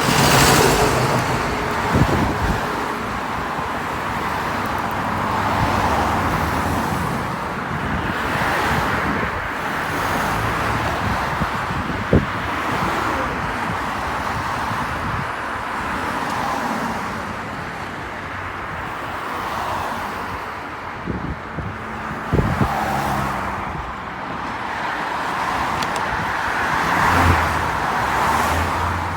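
Road traffic: cars passing one after another, their noise swelling and fading every few seconds, with a few brief knocks.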